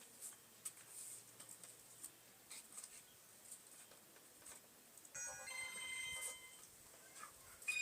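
Faint light ticks and taps, then, about five seconds in, a short electronic melody of steady beeping tones at changing pitches, a phone ringtone, lasting about a second and a half.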